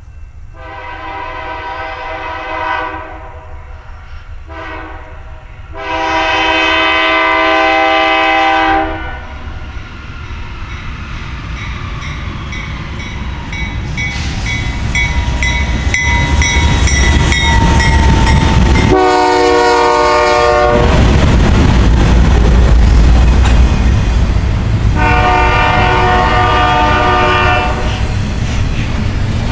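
A BNSF diesel locomotive consist sounds its multi-chime air horn as it approaches: a long blast, a short one, then a long loud one. The train then passes with a rising heavy rumble of engines and wheels on rail, and two more horn blasts come during the pass.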